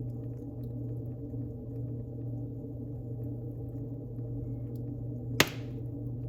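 Wood fire burning in a fireplace: a steady low rumble with faint scattered crackles, and one loud sharp pop about five seconds in.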